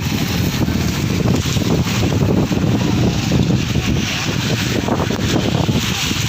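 Wind buffeting the microphone with a loud, rough rumble, over a steady rushing noise of heavy rain.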